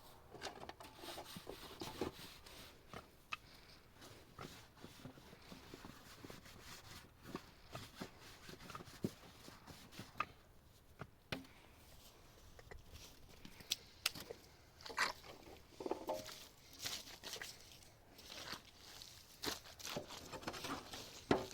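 Irregular light knocks, taps and rustling, scattered through the stretch, with a few sharper clicks around the middle and near the end.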